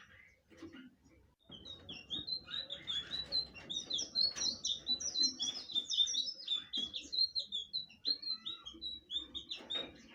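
Blue flycatcher (sikatan biru) singing a fast, continuous warbling song of short, high, sweet notes, starting about a second and a half in.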